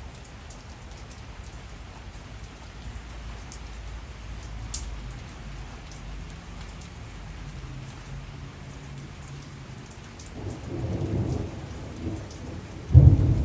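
Steady heavy rain with scattered drops ticking close by. Thunder rumbles low from about ten seconds in, then a sudden loud crack of thunder comes near the end.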